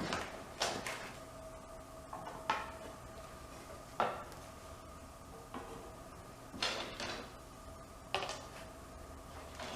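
Scattered light clinks and knocks, about seven, spaced unevenly, typical of tools or hardware being picked up and set down at a workbench. A faint steady hum runs underneath.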